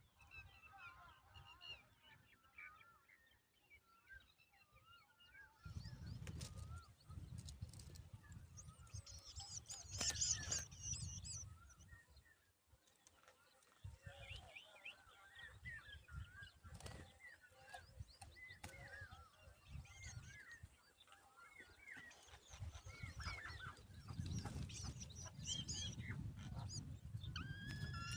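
Birds chirping in many short, quick calls, faint and repeated throughout, with a low rumble underneath at times.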